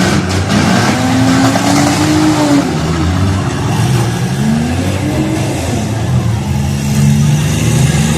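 Several demolition derby car engines revving at once, their pitches rising and falling as the cars push and manoeuvre.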